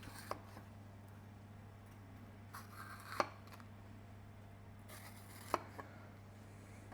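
Kitchen knife cutting a pepper on a chopping board: a few sharp knocks of the blade reaching the board, about three seconds in and twice more after five seconds, with soft rustling of the pepper between them, over a steady low hum.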